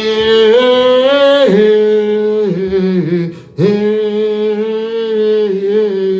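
One voice singing long, wordless held notes that glide slowly up and down, with a short pause for breath about three and a half seconds in.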